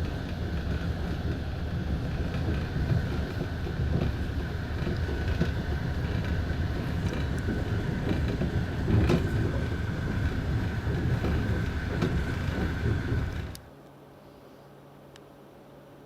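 Passenger train running on the rails: a steady heavy rumble of wheels with a high-pitched whine and a few sharp knocks. About three-quarters of the way in it cuts off suddenly, leaving only a quiet low hum.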